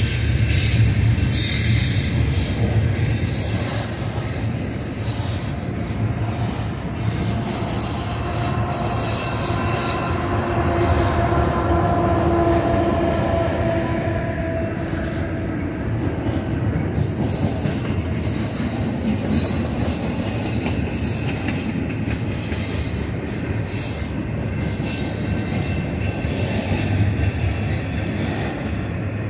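Double-stack container cars rolling past: a steady rumble and rattle of steel wheels on the rails, with a whining wheel squeal on the curve around the middle.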